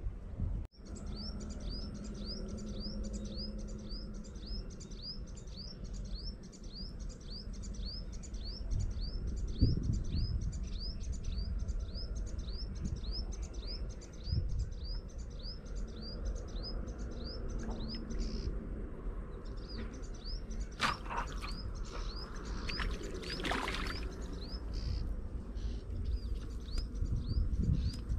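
A bird calling one short high note over and over, about twice a second, with a brief pause about two-thirds of the way through. A low rumble runs underneath, and short scratchy noises come about three-quarters of the way in.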